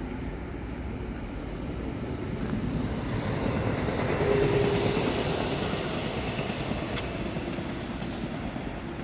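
A passenger train passing: the rumble and rush of the train grow louder, peak about halfway through with a short steady tone, and then fade as it moves away.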